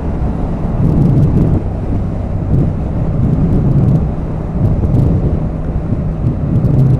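Motorcycle engine running at a steady cruising speed, heard with heavy wind rumble on the rider's microphone and a few faint crackles.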